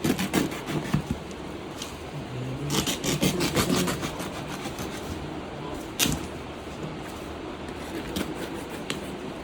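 Parcel packaging being handled and opened: crinkly rustling and rubbing in bursts, with one sharp click about six seconds in.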